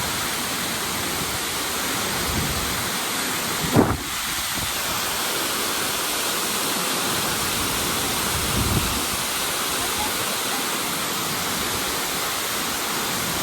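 Tortum Waterfall, a large waterfall, giving a steady, dense rush of falling water. A brief low thump stands out about four seconds in, and a smaller one comes near nine seconds.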